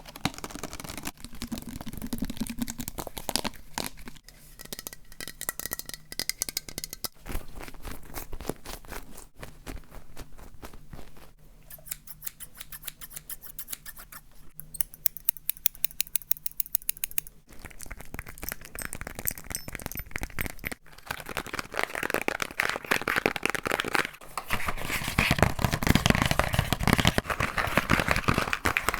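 A quick succession of close-miked ASMR trigger sounds, changing every few seconds: taps, clicks and scratching on different objects. Near the middle comes an even, rapid run of taps, and the last third is louder and denser scratching.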